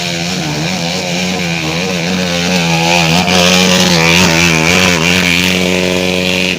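Trail motorcycle engine running hard at high revs. Its pitch wavers up and down, then holds steadier and grows louder in the second half.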